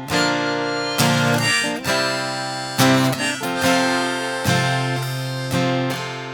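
Live acoustic guitar playing an instrumental break in a country song, strummed chords renewed every second or two and left ringing between strums.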